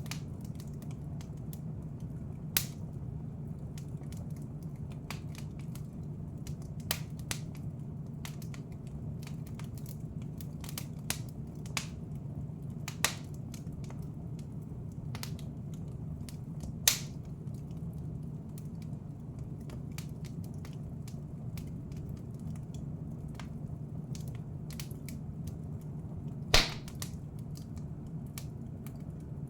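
Wood fire crackling in a fireplace: a steady low rumble with frequent small crackles and four louder, sharp pops spread through.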